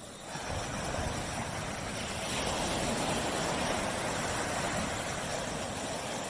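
Surf washing onto a tropical beach, a continuous rushing wash that swells about half a second in and again after about two seconds.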